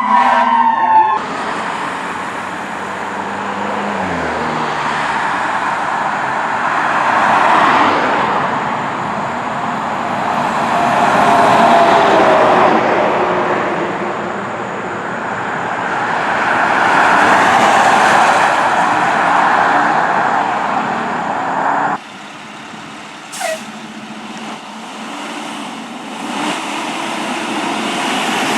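A fire truck's siren sweeps down and ends about a second in. Heavy truck engine and road noise then swell and fade several times as vehicles go by. About 22 s in the sound drops to a quieter level.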